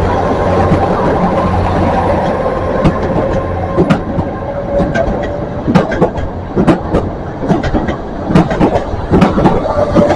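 A train running through the station: a steady low drone at first, then from about three seconds in the irregular clicks and knocks of its wheels over rail joints, with a faint thin tone running underneath.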